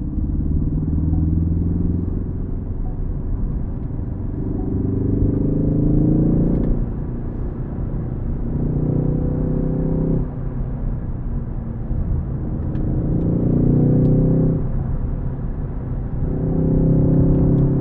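Ford Focus ST engine pulling hard four times, its pitch rising on each pull. Each pull ends with a sudden fall in revs.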